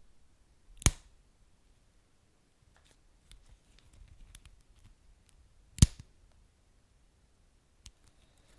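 Wood fire crackling in a fireplace: two loud sharp pops, about a second in and again near six seconds, with scattered faint crackles between them.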